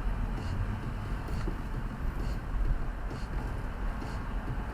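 Steady low rumble and hiss of a car in motion, heard from inside the cabin, with faint ticks about once a second.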